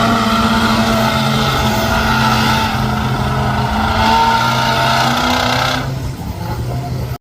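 Large vehicle engine running steadily under load with a high whine over it, easing off about six seconds in.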